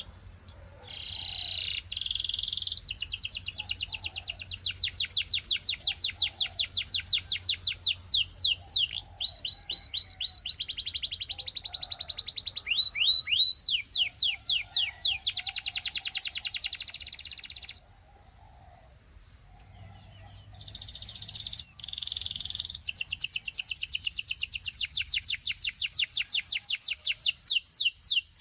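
Canary singing in long rolling trills of fast-repeated notes. The song breaks off for about two seconds near two-thirds of the way through, then resumes.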